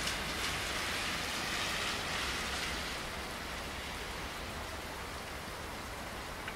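Steady rainfall, a little heavier for the first few seconds and then easing slightly.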